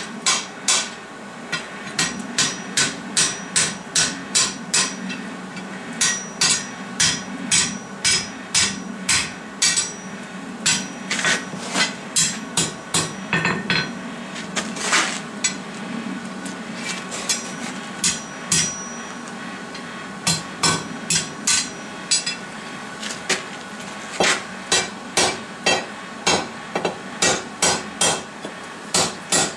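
Hand hammer striking a hot steel bar on an anvil, forging a campfire poker: runs of ringing blows at about two to three a second, broken by short pauses. The blows upset and reshape the bar.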